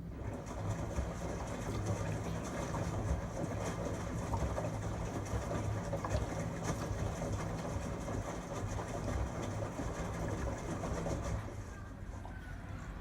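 LG Tromm WD-CR101C front-loading washing machine on a quick-wash cycle, its drum turning with a steady motor hum and rumbling contents. The sound starts abruptly and stops after about eleven and a half seconds, as the drum pauses between turns.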